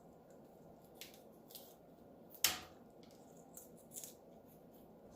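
A parrot's beak crunching and clicking on chopped food, a few scattered sharp clicks over a quiet background, the loudest about two and a half seconds in.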